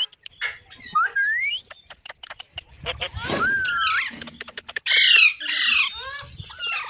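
Indian ringneck parrot calling: rising and falling whistles mixed with harsh squawks, the loudest about five seconds in, with a run of short clicks about two seconds in.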